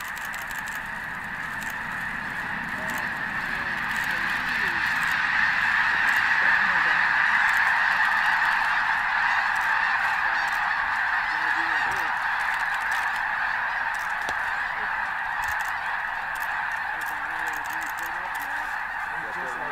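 A huge flock of snow geese calling all at once: a dense, unbroken clamour of honking that swells over the first several seconds and then slowly eases.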